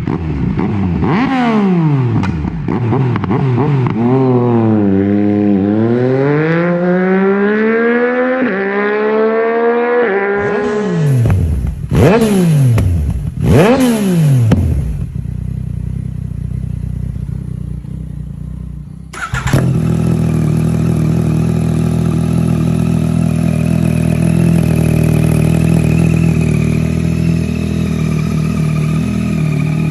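Yamaha MT-09 inline three-cylinder engine revving through its exhaust, the pitch sweeping up and down repeatedly, with two sharp rev blips near the middle. About two-thirds in it changes abruptly to a steady, held engine note.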